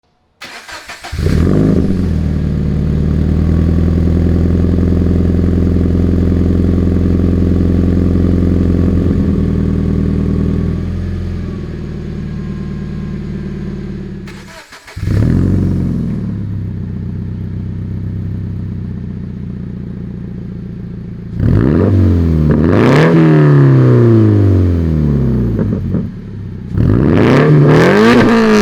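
FA20 flat-four engine through a Tomei Expreme Ti titanium catback exhaust, on a stock header, overpipe and front pipe: it starts up to a high idle that settles lower, starts again about halfway through, then is revved twice near the end, the pitch rising and falling each time.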